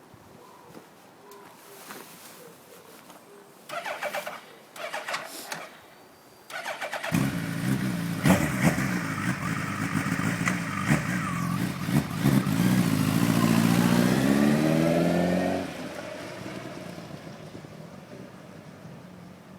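Suzuki Hayabusa GSX1300R inline-four with a Yoshimura slip-on exhaust being started: two short bursts of cranking, then the engine catches about seven seconds in and is blipped a few times. Its note then rises steadily through the revs and drops away sharply, fading off as the bike pulls away.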